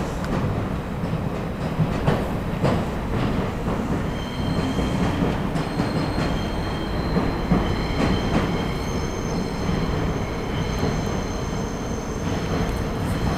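A train rumbling slowly across a steel truss railway bridge, its wheels clicking over rail joints. About four seconds in, a steady high-pitched wheel squeal sets in and keeps going, the flanges grinding on the tight curve at the bridge's end.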